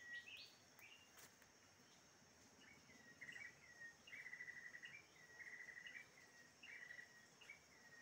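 Faint bird song: a short phrase repeated several times, each a quick rising note followed by a rapid trill, over a steady high insect drone.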